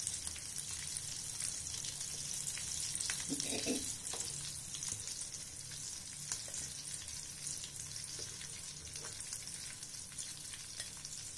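Potato rolls sizzling steadily as they deep-fry in hot refined oil in a pan. A few light clicks come from the slotted metal spoon as the rolls are lifted out.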